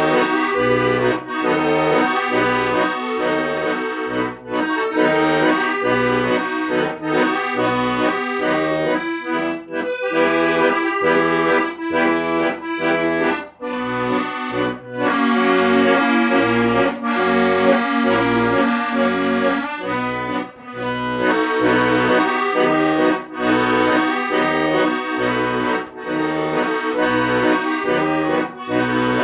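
Accordion playing a tune over a steady bass-and-chord accompaniment with a regular pulse about twice a second. Around the middle the rhythm gives way to long held chords for several seconds.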